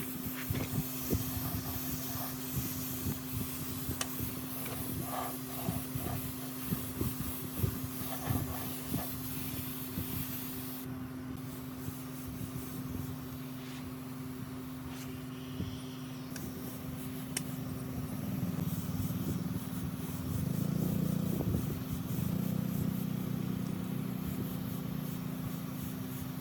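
A workshop machine's electric motor running with a steady hum, with irregular knocks and clicks of metal work in the first half and a louder, rougher stretch from about eighteen seconds in.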